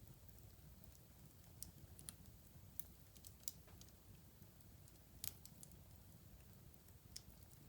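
Faint fire crackling in a fireplace: scattered sharp snaps and pops over a low, steady rumble, with the loudest pops about three and a half and five seconds in.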